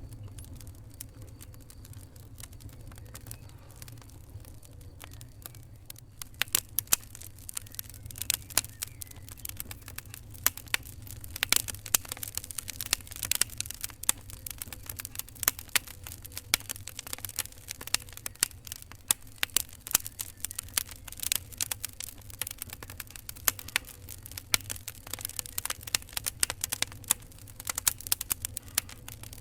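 Fire crackling: irregular sharp pops and snaps over a low steady rumble. The crackles are sparse for the first few seconds, then come thick and fast from about six seconds in.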